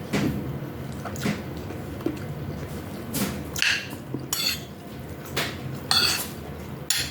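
A metal spoon clinking against a bowl, about eight separate clinks, a few of them ringing briefly, as noodle soup is eaten.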